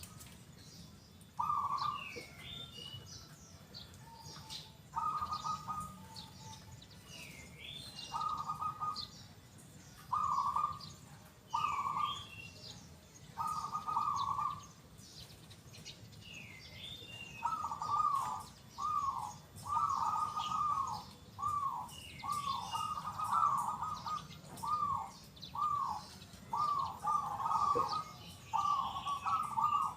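Zebra dove (perkutut) cooing. Its phrases come a few seconds apart at first, then turn into a quick run of short coos, about two a second, from a little past halfway. Another bird chirps with higher gliding notes in the background.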